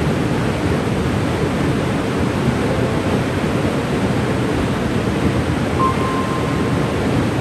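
Waterfall rushing steadily: a dense, even noise, heaviest in the low and middle range. A faint, brief high tone sounds near the end.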